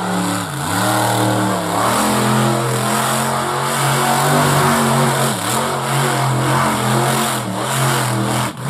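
Monster truck engine revving, its pitch rising and falling, with brief dips in revs about half a second in, a little past halfway, and near the end.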